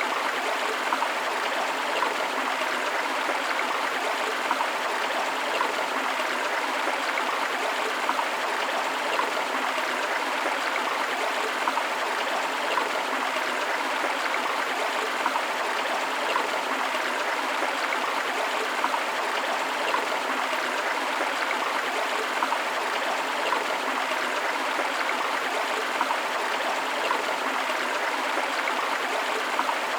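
River water flowing steadily: a constant rush with small irregular splashes and gurgles throughout.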